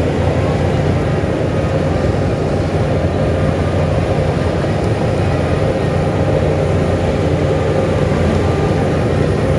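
Heavy earthmoving machine's diesel engine running steadily, a dense low rumble with a faint steady whine above it.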